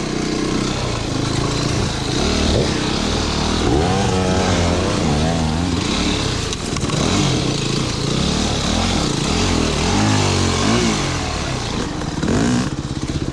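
Off-road motorcycle engine revving up and down repeatedly while riding, over steady wind and road noise. Near the end it settles to a lower, steady note.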